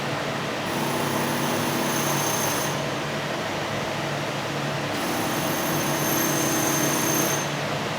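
Transfer robot's electric servo motors whining through two moves of about two seconds each, over a steady machine-shop hum.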